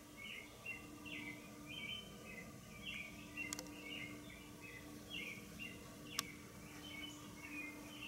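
Faint bird chirping, quick short chirps repeating several times a second, over a steady low hum; two sharp clicks about three and a half and six seconds in.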